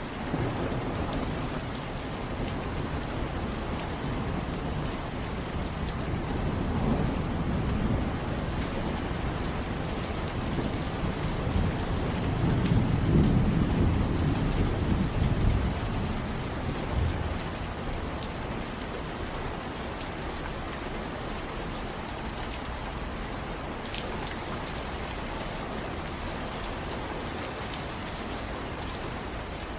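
Steady rain falling, with a long low roll of thunder that builds from about six seconds in, is loudest near the middle and fades away.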